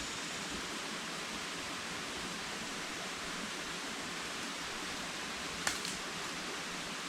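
Steady rushing noise of water, with one sharp click about five and a half seconds in.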